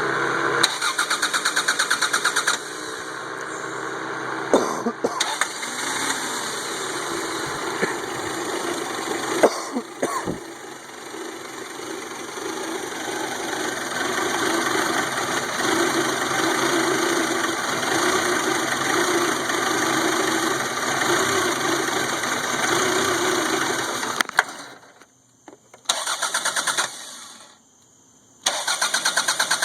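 1992 Toyota Camry four-cylinder engine cranked on the starter, catching after about two seconds and running for about twenty seconds before it dies. It is then cranked twice more, briefly, without starting. The hard starting and stalling came from weak spark through a corroded distributor cap and rotor.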